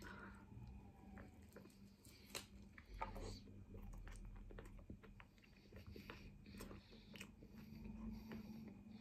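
A person chewing a mouthful of chicken shawarma: faint, scattered wet mouth clicks and smacks, with a couple of sharper snaps between two and three seconds in.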